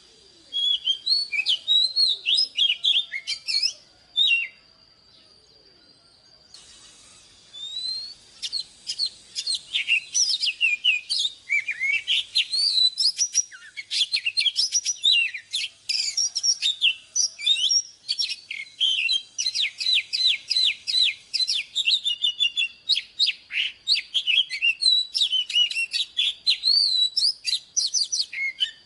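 Oriental magpie-robin singing a fast, varied song of sweet whistles and chirps. It pauses for about three seconds near the start, then sings almost without a break.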